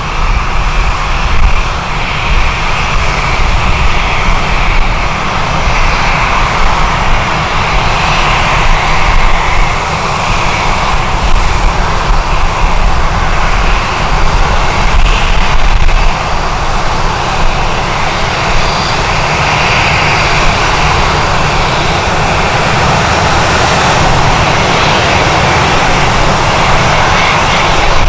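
Jet airliner engines running steadily, with strong wind buffeting the microphone in gusts that ease about halfway through.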